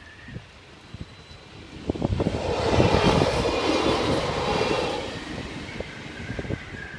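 An Alstom Coradia LINT 41 diesel multiple unit passing over a level crossing. Its engine and wheel noise build up, are loudest about three seconds in, then fade as it moves away.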